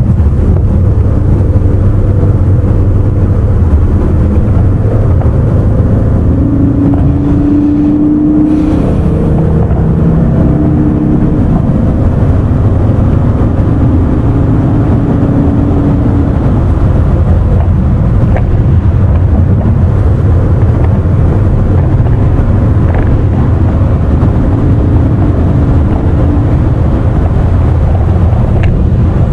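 Car driving at speed: a loud, steady rumble of engine and road noise, with an engine hum coming through more clearly in the middle stretch.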